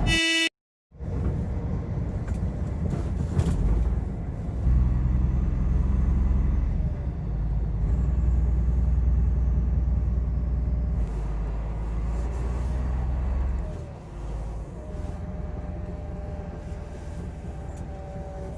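Cargo truck driving at speed, a steady low rumble of engine and tyres heard from inside the cab, which eases and quietens about fourteen seconds in. It opens with a short beep and a brief cut.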